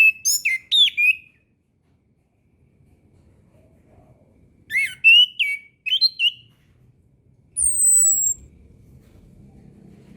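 Orange-headed thrush singing: two short phrases of rich, sliding whistled notes, one at the start and one about five seconds in, followed by a thin, very high, slightly falling whistle.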